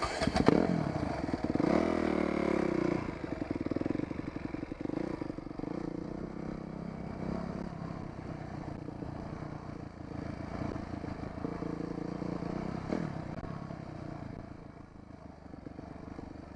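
Dirt bike engine revving up about two seconds in, then running steadily at low speed. A sharp knock comes right at the start.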